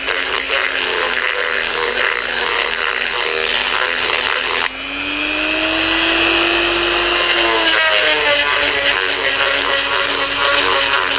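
Dremel rotary tool running with a steady whine as it cleans up the inside of a thin metal pipe for brazing. A little before halfway its pitch rises for about three seconds, then drops back.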